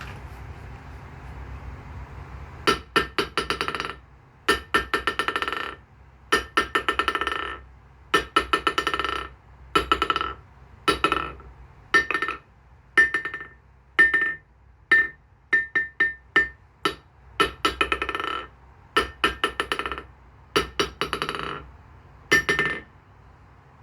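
Brooks 102 kg anvil struck again and again with a hammer from about three seconds in. Each blow brings a quick run of rebounding strikes and a clear ringing tone, and some blows ring higher in pitch than others.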